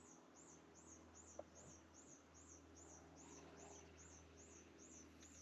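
Faint, high-pitched chirp from a small calling animal, repeated evenly about two and a half times a second, over quiet background.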